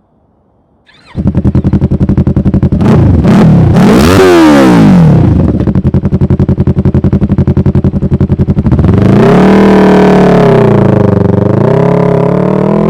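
2019 Yamaha R3's parallel-twin engine breathing through a Toce full exhaust system with its dB killer installed, coming in suddenly about a second in and idling with a pulsing beat. It is revved briefly around four seconds in, settles back to idle, then is revved up and down repeatedly in the second half.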